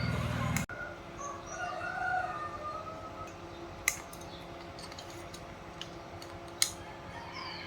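Chickens clucking in the background, with two sharp clicks, one about midway and one near the end. A low rumbling noise stops abruptly under a second in.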